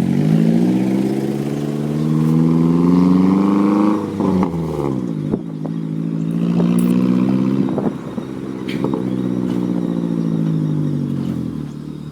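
A motor vehicle engine pulling up through the revs, with a break and drop in pitch about four seconds in like a gear change. It then climbs again and eases off, fading away near the end.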